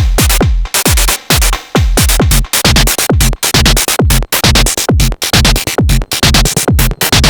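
Techno beat from a Sonic Potions LXR-02 digital drum machine: a steady four-on-the-floor kick whose pitch drops on each hit, about two kicks a second, under dense hi-hats and percussion.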